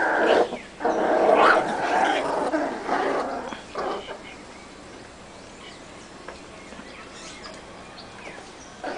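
Young puppies, about seven weeks old, growling and barking at each other in a squabble. The noise is loudest in the first four seconds, then drops to a low background.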